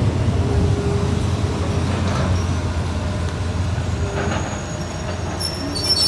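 Passenger train rolling along the track, heard from an open coach window: a steady low rumble of wheels on rail, with a brief high wheel squeal near the end.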